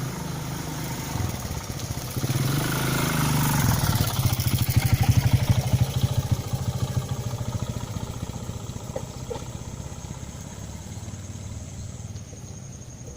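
A motorcycle engine passing close by, getting louder to a peak about five seconds in and then fading away.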